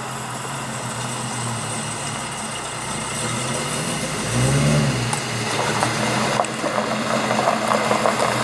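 Classic car engines running at low speed, with one engine briefly revving up and back down about four and a half seconds in, then a rougher engine sound toward the end.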